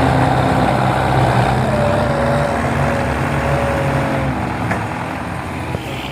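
Belarus 510 tractor engine running steadily, with a thin whine through the middle, getting gradually quieter toward the end.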